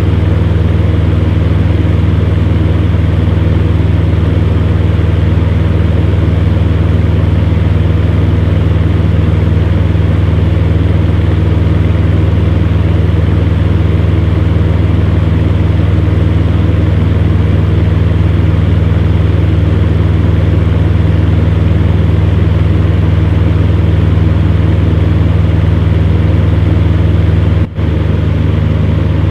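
Electric fan heater running steadily: a constant low hum under an even whoosh of air, with one very brief dropout near the end.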